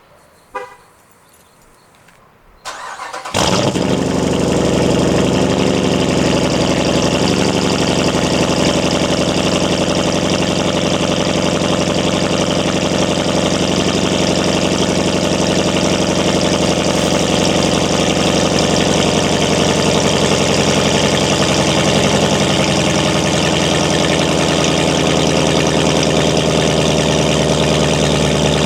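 Dodge Durango R/T's 5.7 Hemi V8, exhaust fitted with a resonator delete, cold-starting: a short beep about half a second in, a brief crank about three seconds in, then the engine catches and settles into a steady, loud cold-start idle.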